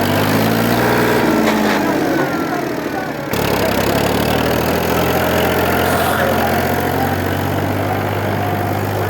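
Tractor engine running steadily, its pitch bending in the first two seconds, with an abrupt change in its note about three seconds in.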